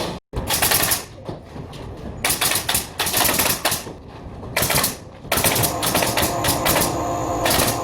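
Several bursts of rapid, sharp mechanical clicking, a pneumatic tacker (air stapler/nailer) firing shot after shot in quick runs.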